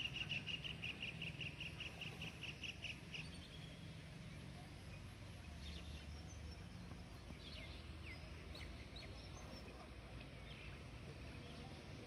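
A bird calling, a rapid, even series of short high notes at about four or five a second for some three seconds, then scattered short chirps. A low background rumble runs under it.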